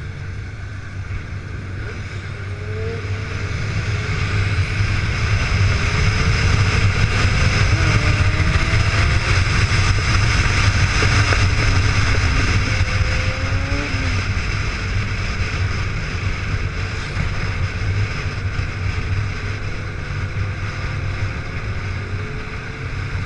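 Motorcycle engine running on the move, with a steady low drone under wind and road noise; it grows louder in the middle, as if the bike speeds up, then eases off again.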